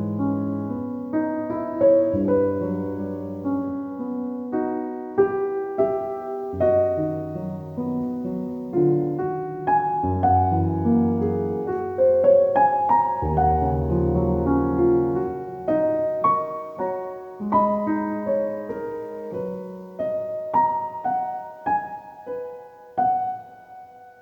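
Background music: a gentle solo piano piece, single notes and chords over low bass notes.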